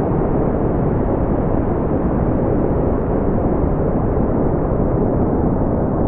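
Steady brown noise: an even, deep rumbling hiss with no changes, its energy strongest in the low range and fading out above the upper mids.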